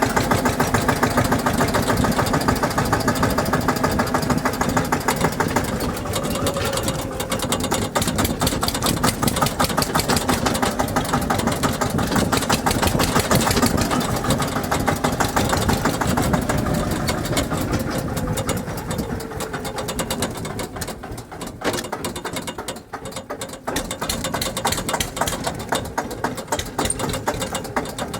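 Tractor engine running with a rapid, even beat of firing pulses. Its pitch drifts a little, and it drops quieter for a few seconds about three-quarters of the way through.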